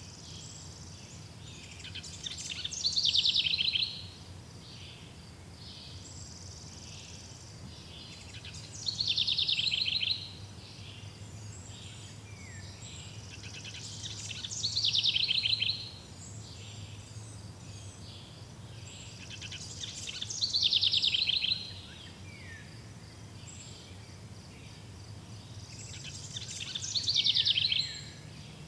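A songbird repeats the same short, swelling, trilled phrase five times, about every six seconds. A faint steady background of insects and low hum runs beneath it.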